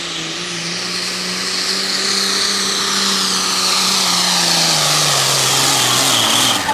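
Turbo-diesel pickup in the 3.6 class at full throttle on a pull, engine running hard under a loud turbo hiss that builds over the pass. The engine pitch sags in the last couple of seconds as the load builds, and the sound drops off sharply at the end.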